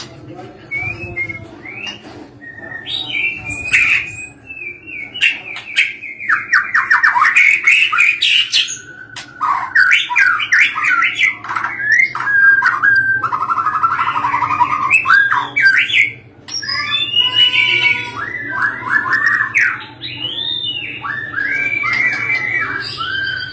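White-rumped shama (murai batu) singing a long, varied song of loud whistles, rapid trills and chattering phrases, with a low steady hum underneath.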